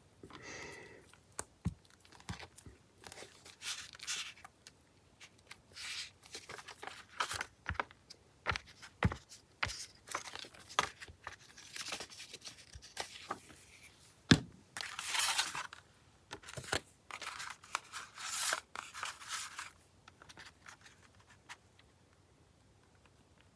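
Paper being handled on a craft desk: scattered rustles, scrapes and small taps, with two longer bursts of rough paper noise about a third and three quarters of the way through.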